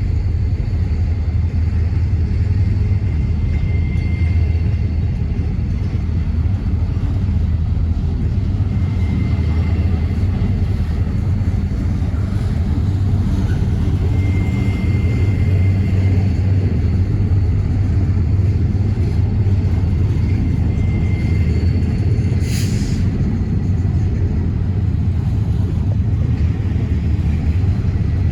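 Steady low rumble of a moving vehicle, with faint brief high tones now and then and one sharp click a little over 22 seconds in.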